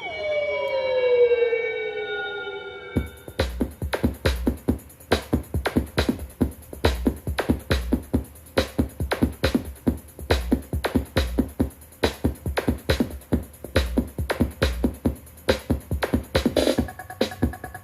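Electronic dance music played on a Tribit StormBox BTS30 portable Bluetooth speaker. It opens with a few seconds of falling synth glides, then a fast drum-machine beat with deep bass kicks starts about three seconds in.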